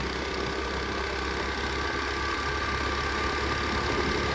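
Pit bike engine running steadily at low revs.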